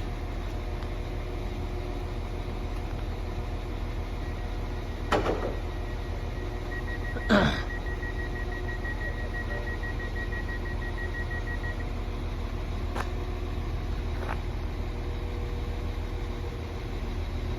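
Class 150 diesel multiple unit idling at the platform with a steady low engine rumble. A rapid high beeping starts about four seconds in and runs for about seven seconds, with two loud clanks about five and seven seconds in and two fainter knocks later.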